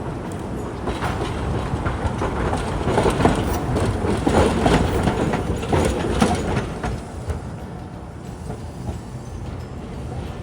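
A Hiroshima Electric Railway streetcar passing, its steel wheels clacking over rail joints and points. It grows louder from about a second in, is loudest in the middle, and fades away after about seven seconds.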